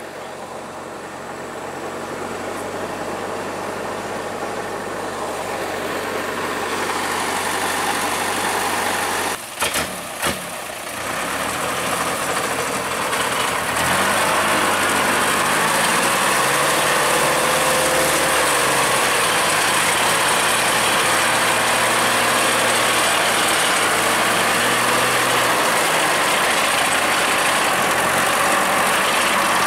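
Truck engine running, mostly at idle. Its speed rises and falls in slow swells in the second half. There is a brief clatter about ten seconds in.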